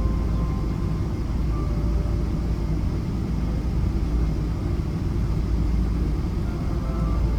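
Steady low rumble of a Boeing 777-200ER's cabin while the airliner taxis after landing, engines at idle, with faint thin whining tones over the rumble.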